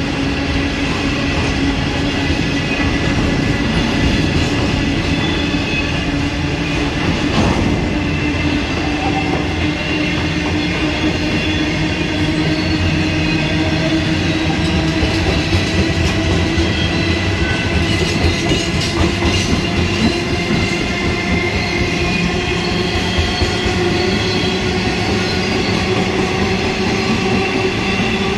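Long train of coal hopper wagons rolling past close by: a steady rumble of wheels on rail with a thin wheel squeal and a low hum that slowly rises in pitch, and one sharp clack from a rail joint about seven seconds in.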